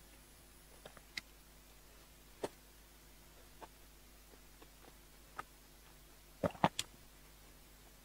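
Close-miked mouth sounds of someone chewing red-braised pork belly: soft, scattered wet clicks and smacks, with a quick cluster of louder ones about six and a half seconds in.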